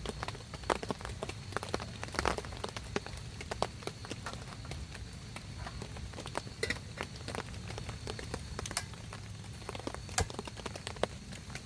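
Rain dripping: separate drops tapping irregularly on a surface, some much louder than others, over a low steady rumble.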